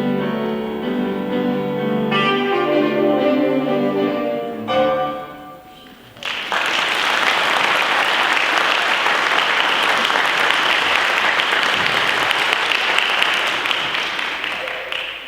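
The song's piano-led instrumental accompaniment plays its closing bars and stops about five seconds in. After a short pause, an audience applauds steadily, dying away near the end.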